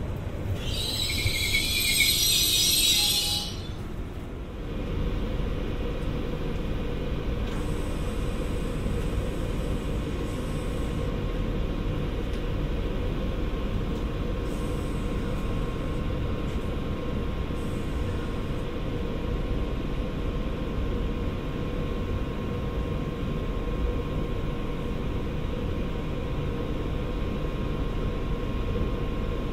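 Electric regional train at a platform: a high hiss for about three seconds near the start, then a steady low hum and rumble from the standing train, with a faint steady tone.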